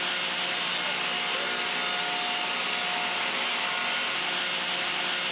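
Steady running noise of wood-processing machinery on an OSB production line: an even hiss with a faint low hum underneath.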